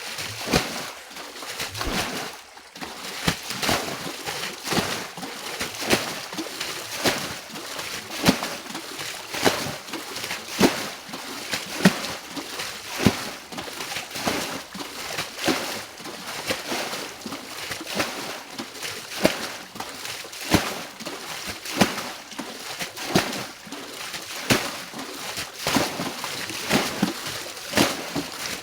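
Shallow water sloshing with a sharp splash roughly every second or so, as water is bailed out of a pond to drain it.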